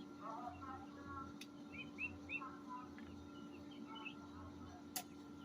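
Small birds chirping faintly and intermittently over a steady low hum, with a sharp tick about five seconds in.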